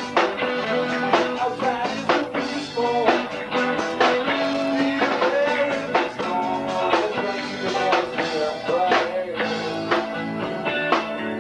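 Live rock trio playing: guitar lines with bent notes over bass guitar and a drum kit keeping a steady beat.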